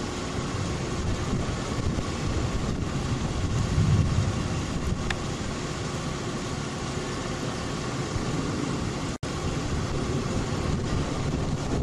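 Steady road and engine noise of a moving car, heard from inside, with a louder swell about four seconds in and a brief dropout in the audio a little after nine seconds.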